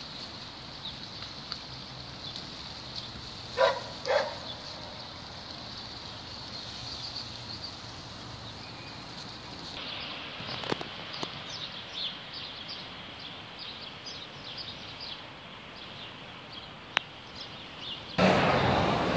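Small birds chirping in quick short high notes over a steady outdoor background noise, with two louder calls about four seconds in. Near the end a loud, steady rushing noise sets in suddenly.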